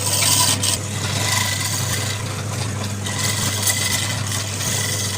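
Wood lathe running with a steady motor hum while the spinning wood is worked with a tool, a hissing scrape that is loudest in the first second.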